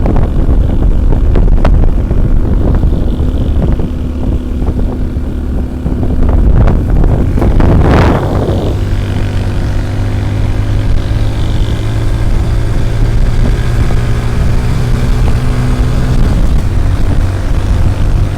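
Motorcycle engine running at steady cruising speed, with wind buffeting the microphone. A loud rush of noise swells and fades about eight seconds in, after which the engine holds an even note.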